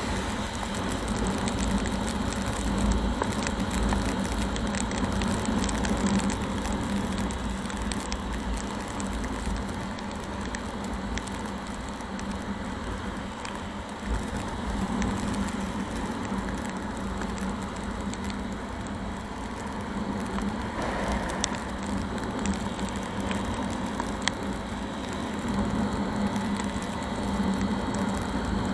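Motorcycle riding in heavy rain: steady engine and road noise mixed with the noise of rain and spray, swelling and easing slightly.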